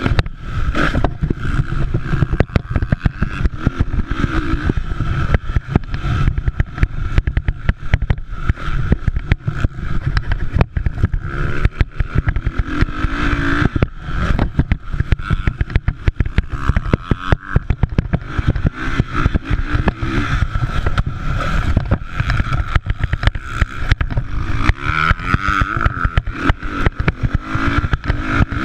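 Motocross dirt bikes' engines revving, their pitch rising and falling as the throttle opens and closes, over a constant rough, choppy rumble.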